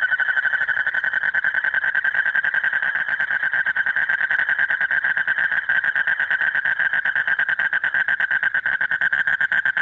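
A male Asian common toad giving its breeding call: a loud, rapid, unbroken trill, a mating call to draw in a female.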